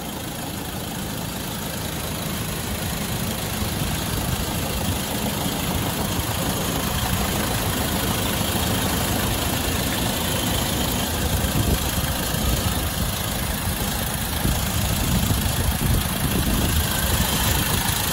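Land Rover Defender 90's 2.2 TDCi four-cylinder turbodiesel engine idling steadily at operating temperature. It grows louder over the first few seconds, then holds level.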